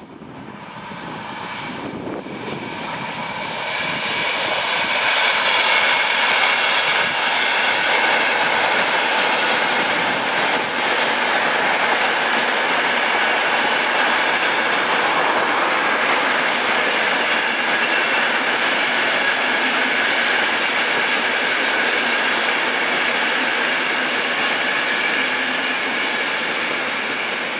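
Electric multiple-unit passenger train running past on the line: a steady rush of wheels on rail with a high, steady whine. It builds over the first few seconds, then holds.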